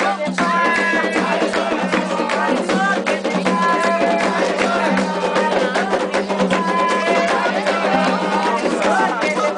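Candomblé ritual music: steady, fast hand-drum and percussion rhythm with a chorus of voices singing over it.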